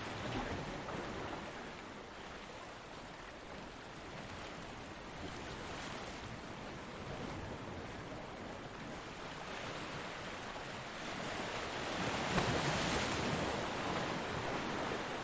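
Ocean surf breaking on a beach: a continuous wash of waves, with one louder wave crashing near the end.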